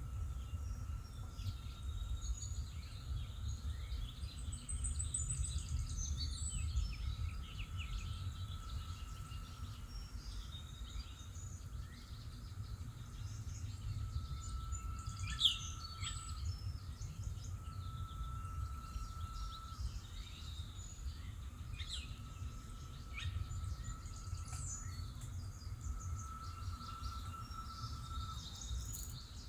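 Outdoor ambience: songbirds chirping over a steady low rumble of background noise, with a drawn-out mid-pitched tone that repeats every few seconds.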